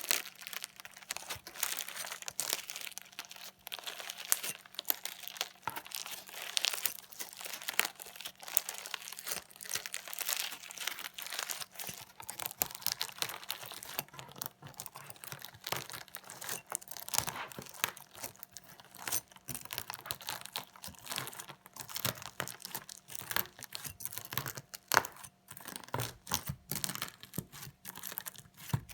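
Slime mixed with sequins being stabbed and chopped with a fork, giving a dense, irregular run of crunchy crackles and clicks.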